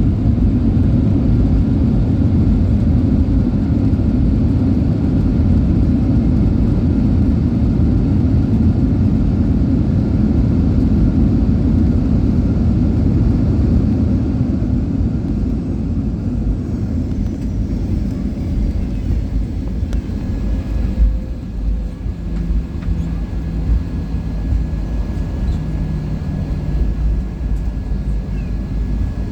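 Jet engine and airflow noise heard inside the cabin of a Boeing 737-800 with CFM56-7B engines. A loud, steady roar eases off over the second half into a quieter hum with a few steady low tones.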